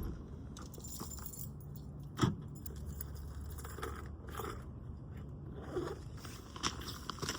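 Keys and small gear jingling and rustling as they are handled, with a single thump about two seconds in. A low steady hum runs underneath from about three seconds in.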